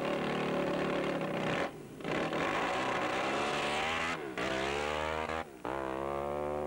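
Supercharged 350cc Honda sprint bike engine accelerating hard, its note climbing in stretches with three brief breaks in between.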